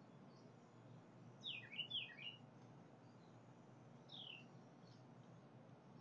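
A songbird calling: a quick run of sharp, descending whistled notes about one and a half seconds in, then a single downslurred note about four seconds in.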